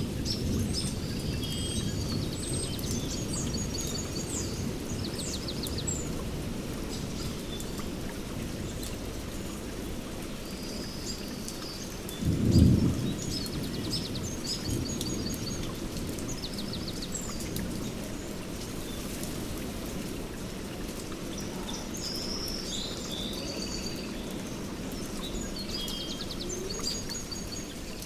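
Steady rain with a low thunder rumble beneath it, and one short, louder peal of thunder about twelve seconds in. Birds chirp and trill high above the rain throughout.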